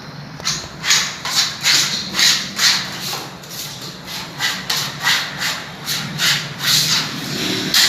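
Repeated rubbing strokes on a surface by hand, about two a second in an even rhythm.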